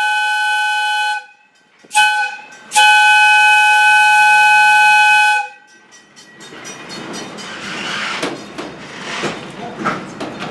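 Steam whistle of Valley Railroad Mikado #40 blowing a chord of several tones: a blast ending about a second in, a short toot, then a longer blast. It gives way to the rolling rumble and wheel clicks of the passenger train moving on the rails.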